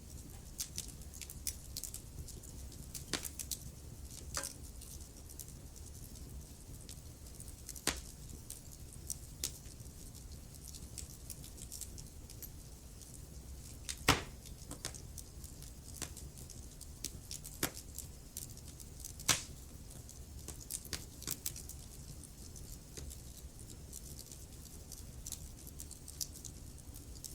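Wood fire burning in a fireplace: irregular crackles and sharp pops over a low steady rumble, the loudest pops about halfway through and again a few seconds later.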